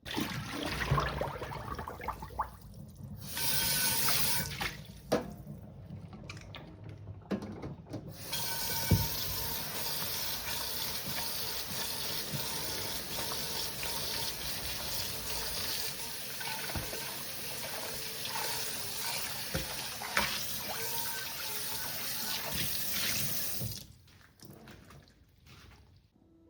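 Kitchen tap running into a sink, with occasional knocks and clinks of things being handled. A short run of water comes about three seconds in, then a long steady run from about eight seconds that stops shortly before the end.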